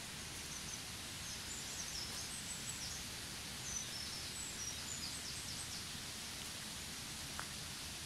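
Small birds chirping and twittering in quick high notes over a steady hiss of outdoor ambience. The calls come through the first half or so, and a single click is heard near the end.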